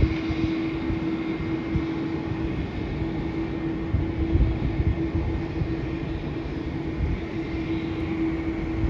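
Distant jet airliner engines running with a steady, constant hum, over a gusty low rumble of wind on the microphone.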